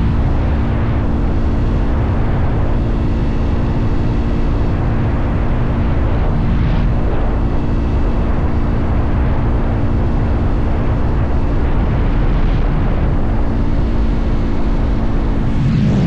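Motorcycle engine running at a steady cruising speed, a constant droning note under heavy wind rumble on the microphone. The engine note shifts right at the end.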